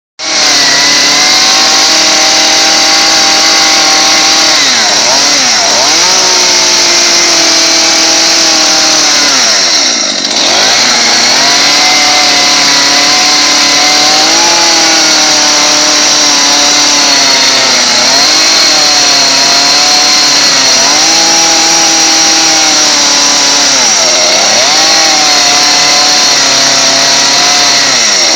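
Chainsaw running at high revs throughout, its pitch sagging and recovering several times as it bogs under load while cutting into a pumpkin.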